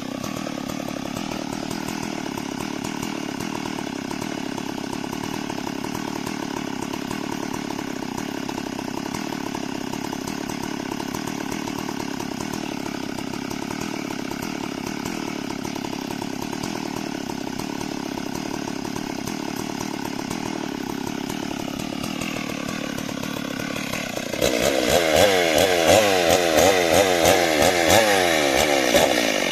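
A chainsaw running steadily. About three-quarters of the way through it suddenly gets much louder, and its pitch wavers up and down.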